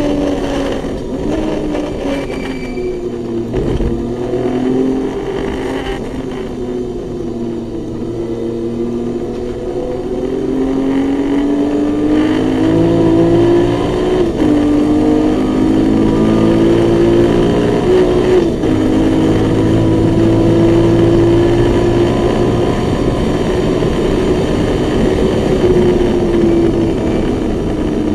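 Naturally aspirated 2.7-litre BMW M20 straight-six in an E21 race car, heard from inside the cabin on a lap at racing speed. The engine note dips early on, climbs steadily with brief breaks for gear changes about halfway and two-thirds through, holds high down the straight, then falls near the end as the car slows for a corner.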